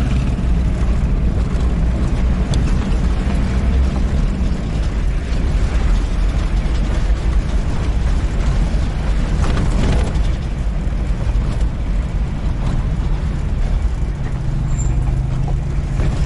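4x4 jeep's engine running steadily, with the body and fittings rattling and creaking as it drives over a rough road.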